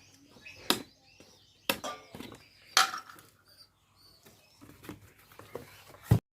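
Several sharp clicks and knocks with light scratching and rustling between them, ending in a loud knock just before the sound cuts off.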